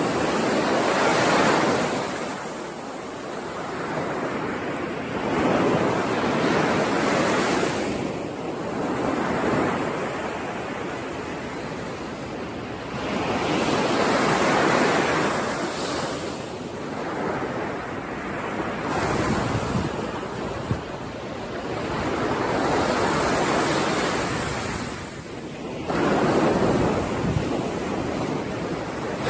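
Sea waves washing onto a shore, the surf swelling and falling back every four to six seconds.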